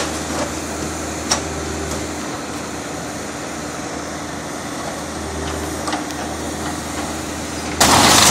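Backhoe's diesel engine running steadily, with a single sharp tick about a second in. Near the end a sudden loud rushing noise starts over it.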